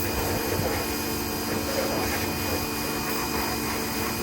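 Motor of a cleaning machine running steadily, a constant drone with a steady hum.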